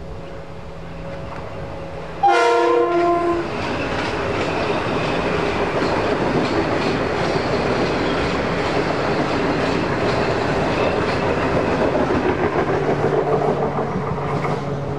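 A train horn sounds one short blast about two seconds in, and then the train passes close by with the continuous rumble and clatter of its wheels on the rails, easing off near the end.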